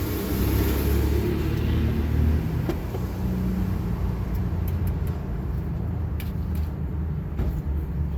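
Steady low rumble of a motor vehicle, with a few faint clicks in the second half.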